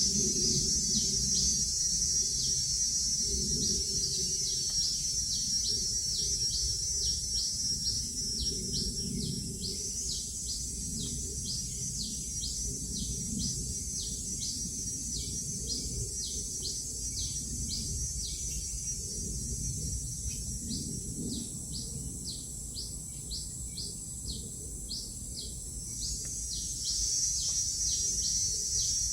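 Tropical forest ambience: a bird gives a long run of short, falling, high notes, a couple a second, over a steady high drone of insects.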